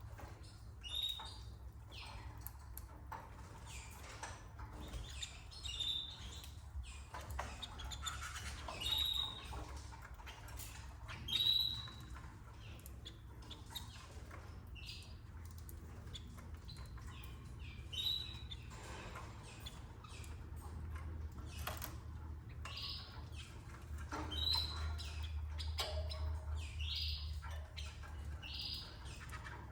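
Canaries giving short, high chirps every few seconds, among scattered small clicks and rustles, over a steady low hum.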